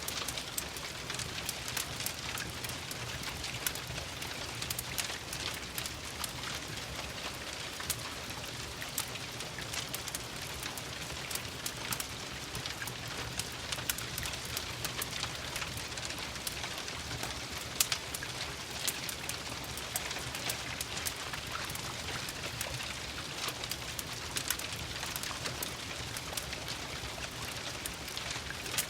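Steady rain hiss with many scattered sharp crackles and pops of a wood fire, one louder crack a little past the middle.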